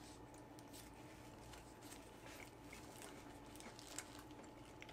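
Near silence: faint chewing of a sushi burrito, with soft scattered mouth clicks and one slightly louder click about four seconds in, over a low steady hum.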